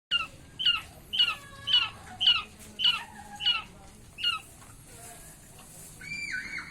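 A quail calling: eight short, sharp, high calls, about two a second, each dropping slightly in pitch. A fainter, different call follows near the end.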